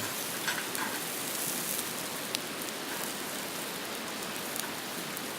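Pork steaks sizzling on a grill over a wood fire, a steady hiss with a few faint pops.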